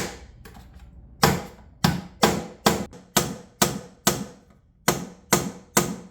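Repeated sharp hammer blows, roughly two a second and uneven in spacing, driving an old epoxied stainless steel undermount sink downward to break it loose from the granite countertop.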